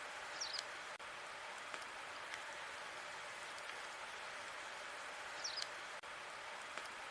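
Log fire burning with a steady hiss and faint scattered crackles. Two brief high chirps stand out, about half a second in and again near five and a half seconds.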